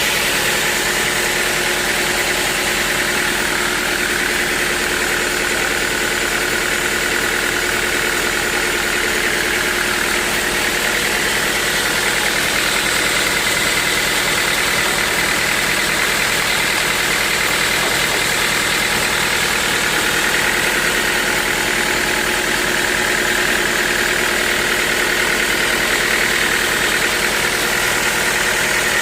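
Sawmill machinery running steadily, a continuous mechanical hum with a high whine around it and no break or change.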